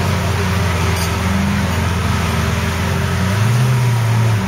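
Lamborghini Aventador's V12 engine idling with a steady low burble. Its note rises a little for about a second, roughly three and a half seconds in.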